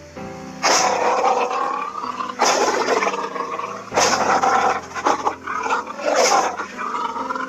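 Lion roaring: several loud calls in a row, each about a second long, the first coming a little under a second in.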